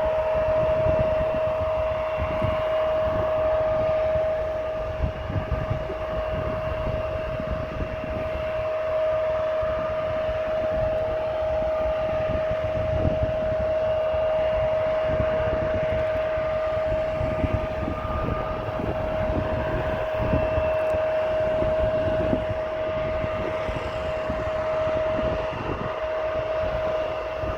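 Wind buffeting the camera's built-in microphone in gusts, over a steady whine held at one pitch from distant jet aircraft engines.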